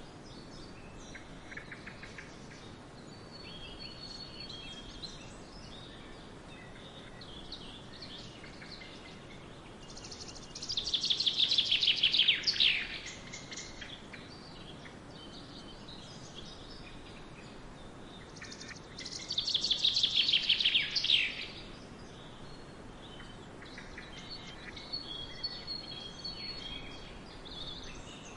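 Forest birdsong: several birds chirping and whistling faintly over a soft steady background. Twice, about a third of the way in and again past the middle, one bird sings a louder, rapid trill that falls in pitch over about two seconds.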